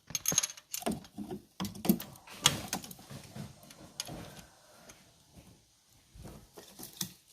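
Metal tools and engine parts clinking and knocking as a mechanic works on an engine's valve gear, in an irregular run of clicks and clatters that thins out after about three seconds, with one more sharp click near the end.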